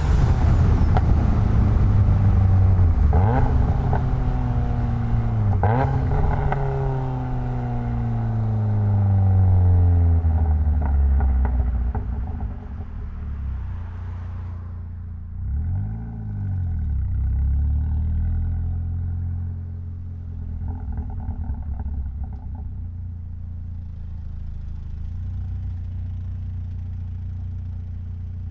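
Mitsubishi Lancer Evolution X's turbocharged 2.0-litre inline-four slowing down from high revs, its pitch falling with two sudden jumps up in revs in the first few seconds as it shifts down. A short rev blip comes around the middle, then the engine settles into a steady idle.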